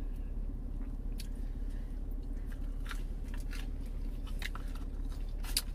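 A person chewing chicken nuggets close to the microphone, with scattered short mouth clicks over a steady low hum.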